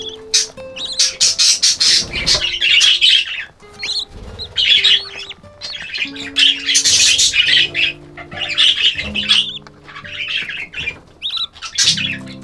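A flock of budgerigars chattering and squawking in rapid, overlapping bursts, over soft background music with held low notes.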